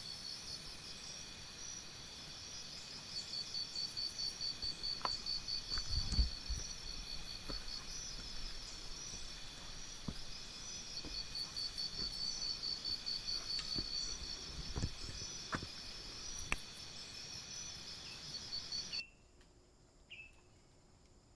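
Chorus of insects chirping in a steady, high, rapidly pulsing trill, with a few soft thumps and knocks. It cuts off abruptly near the end, leaving near silence.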